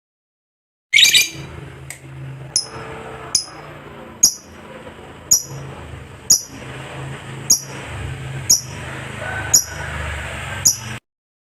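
Lovebird calling: a short, dense chattering burst about a second in, then single sharp, high chirps about once a second over a low background rumble.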